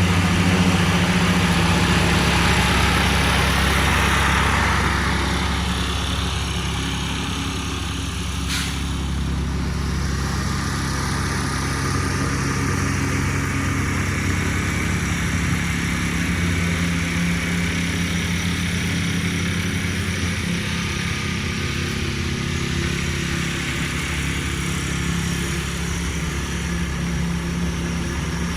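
Small lawnmower engine running steadily. A hiss rides over it for the first few seconds, and there is a single sharp click about eight and a half seconds in.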